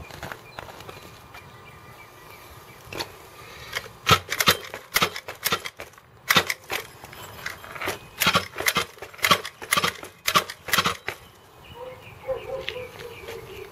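A harsh grinding noise in a quick series of short strokes, two or three a second, as the mechanism is pulled repeatedly. The grinding starts about four seconds in and stops about eleven seconds in.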